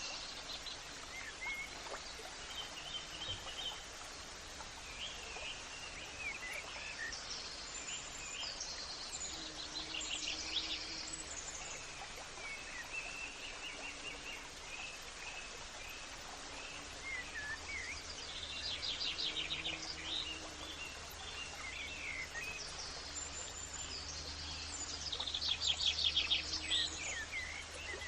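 Several birds calling and singing, with short chirps and whistles throughout and fast trills about ten seconds in, near the middle and near the end, over a steady low background rumble.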